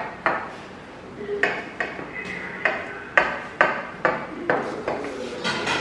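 Cutlery knocking against dishware: about a dozen sharp clinks and knocks at uneven spacing, each with a short ring, as lasagna is sliced and served.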